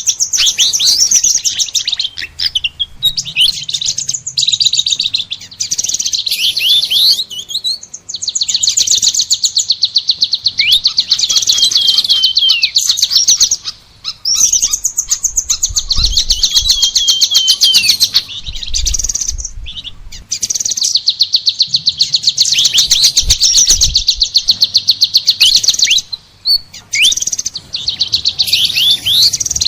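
Songbird song: long, loud runs of very rapid high chirps and trills with quick down-slurred notes, in phrases of several seconds separated by short pauses.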